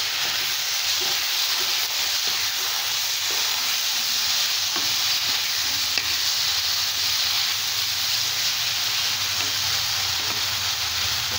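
Sliced ivy gourd frying in oil in a nonstick kadai, with a steady sizzle, as a wet coconut and fennel paste is stirred through it. There is one light tap against the pan about halfway through.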